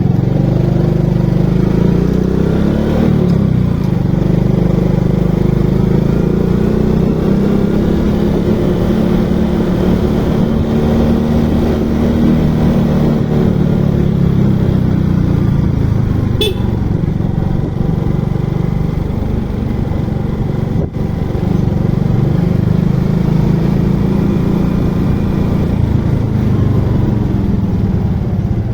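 Motorcycle engine running steadily while riding, its pitch rising and falling gently. A brief sharp click comes about sixteen seconds in.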